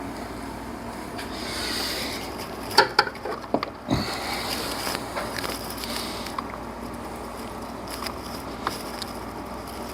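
Rubbing and scraping of a serpentine belt being worked by hand around the engine's pulleys, with a cluster of sharp clicks and knocks about three seconds in.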